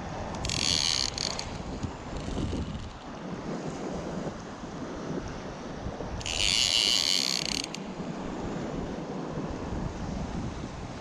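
Wind buffeting the microphone. Two bursts of a high-pitched buzzing hiss, each about a second long, come shortly after the start and again about six seconds in.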